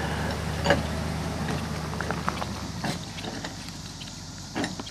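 Vehicle engine running at a steady low hum that stops about three seconds in, with a few sharp clicks and knocks.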